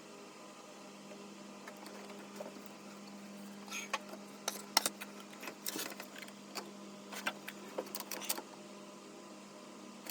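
A steady low mechanical hum, with a run of sharp clicks and knocks in the middle of the stretch.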